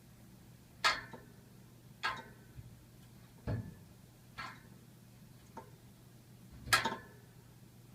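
Heating radiator and its pipes ticking and knocking at uneven intervals: six sharp ticks, a duller knock about three and a half seconds in, and the loudest tick near the end. A faint steady low hum runs underneath.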